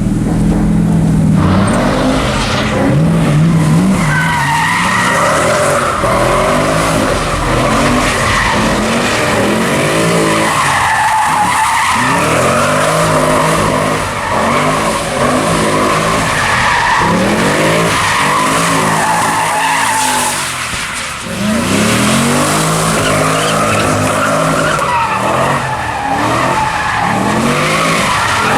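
A car doing donuts: the engine revs rise and fall again and again, about every two seconds, under a continuous tyre squeal.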